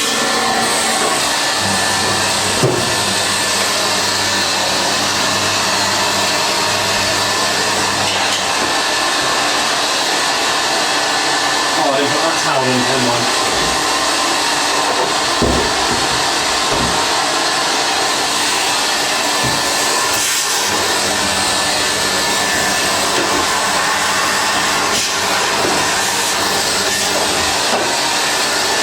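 Vacuum cleaner running steadily while fluff is cleaned out of a tumble dryer, with a few light knocks in the middle.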